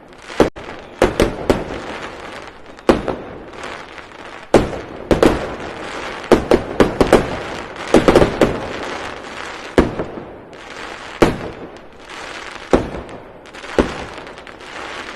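A rapid, irregular series of loud sharp bangs and pops over continuous crackling, with the bangs coming thickest in the middle.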